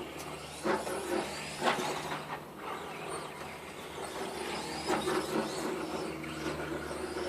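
Electric RC car running, its motor whine rising and falling, with a few sharp knocks about a second in, near two seconds and about five seconds in.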